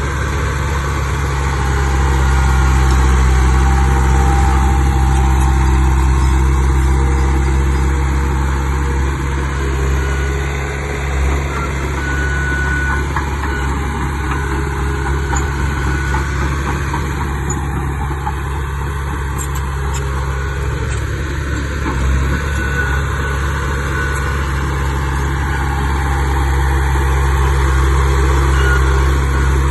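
Diesel engine of heavy earthmoving machinery running steadily, with a deep even hum.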